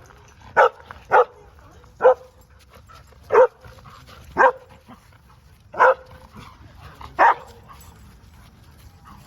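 A dog barking in single short barks, seven of them about a second apart.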